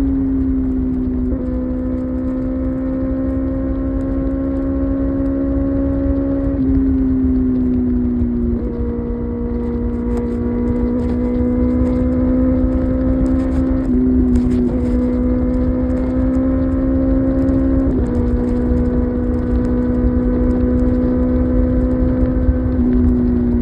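Kawasaki ZX-6R inline-four engine running at highway cruising speed. Its steady note drifts slightly up and down, and its tone changes abruptly every few seconds, over a low rush of wind noise.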